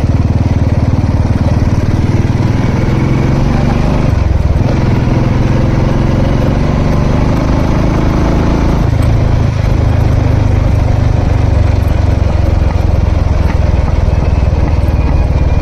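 Royal Enfield Classic 350's single-cylinder engine running under way on a ride. The engine note dips briefly about four seconds in, then changes pitch again around nine seconds, as with throttle changes or gear shifts.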